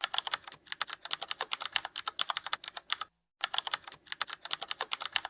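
Rapid typing on a computer keyboard, a fast run of key clicks that stops dead for a moment about three seconds in and then picks up again.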